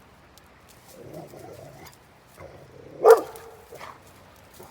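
An Anatolian Shepherd dog gives one loud, deep bark about three seconds in, with quieter sounds before it. He is barking at a bear nearby.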